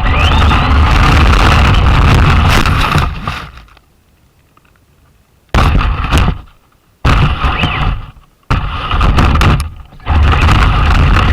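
Traxxas Slash RC car driving, heard from a camera riding on it: a loud rumble of motor, tyres and rattling suspension. It dies away a few seconds in, then comes back in four sudden bursts that each start sharply and tail off, the last one running on steadily.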